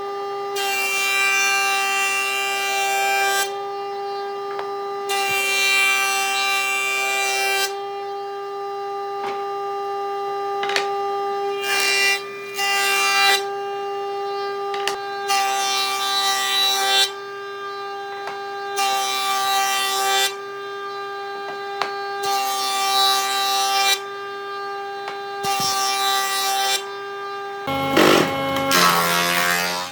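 An electric power tool runs with a steady whine and cuts into wood in repeated passes. Each pass lasts two to three seconds and comes about every four seconds. Near the end the motor's pitch wavers and changes.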